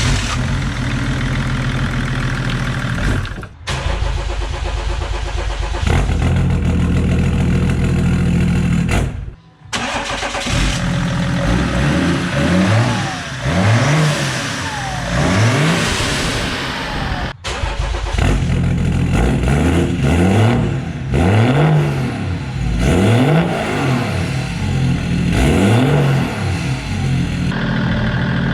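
BMW M57 straight-six turbodiesel running on its first start-up after an engine swap: idling steadily at first, then revved in a series of short throttle blips, the pitch rising and falling each time from about twelve seconds in.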